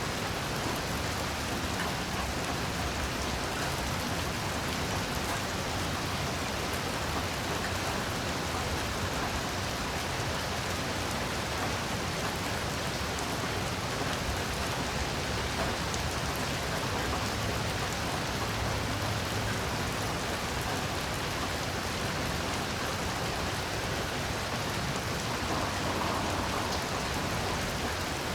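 Heavy rain falling steadily, a dense even hiss of drops hitting the ground and leaves.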